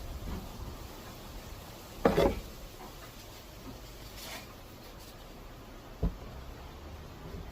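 Wooden SUP frame pieces being handled during assembly: a short clattering knock about two seconds in and a single sharp knock about six seconds in.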